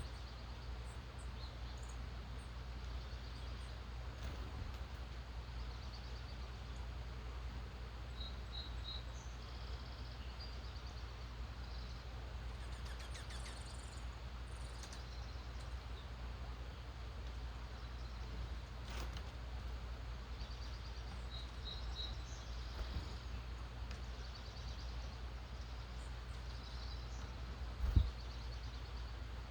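Faint early-morning birdsong: scattered short chirps and brief trills over a steady low rumble, with a single thump near the end.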